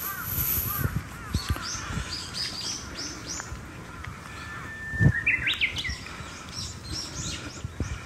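Several songbirds calling and singing: repeated short arched notes, quick high chirps, and a long held whistle about four seconds in that breaks into a fast flourish. Soft low knocks throughout and one heavier thump about five seconds in.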